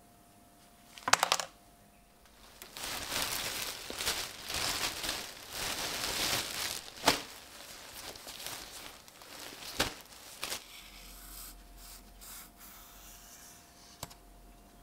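Hand work on a small metal knife: a sharp clatter about a second in, then several seconds of rough scraping or rubbing, with single sharp clicks in the middle and later, tapering off to quieter handling.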